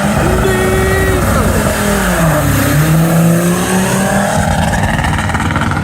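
An MG car accelerating away hard, its engine loud. The revs dip about two and a half seconds in and then climb again.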